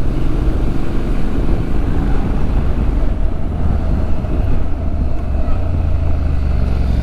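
Motorcycle engine running and wind noise while riding, a steady low rumble under a rushing haze; near the end the engine note rises as the bike accelerates.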